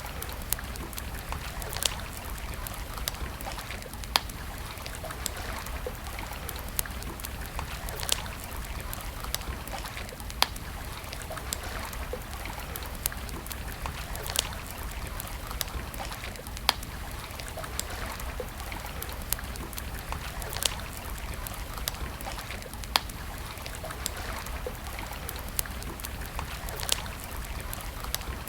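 Wood fire crackling, with sharp pops every second or two, some of them loud, over a steady rushing background like a running stream.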